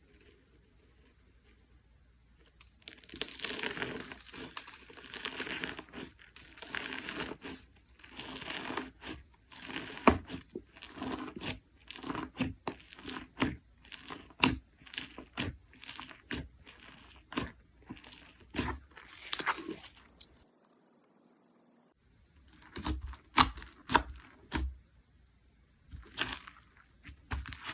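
Semi-crunch micro-foam slime being pressed and worked by hand, crackling crisply with many sharp pops and clicks. It starts about two and a half seconds in, and stops for about two seconds near the end before picking up again.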